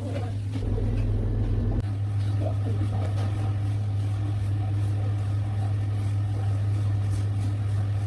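A steady low machine hum with faint scattered ticks above it.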